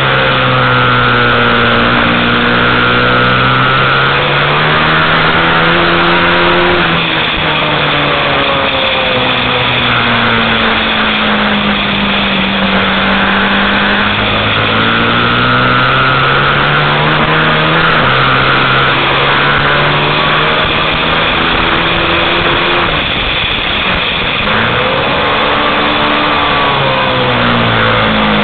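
Ducati 1098R superbike's V-twin engine at racing pace, heard from the onboard camera on the bike. The revs climb and fall again and again through gear changes, accelerating out of corners and slowing into them.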